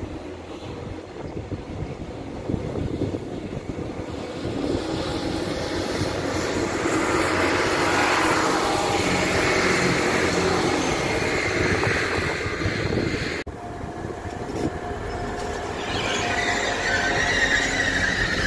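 A Northern passenger train passes on a far track, its rumble building up to a loud, steady pass. After a sudden cut, a Grand Central train rolls by close to the platform with a wavering high wheel squeal.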